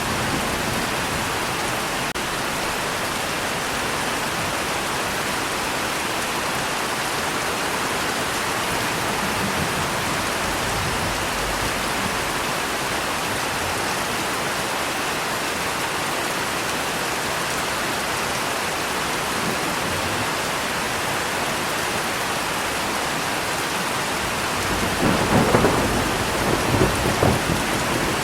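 Steady rain falling, with a roll of thunder rumbling and crackling about three seconds before the end.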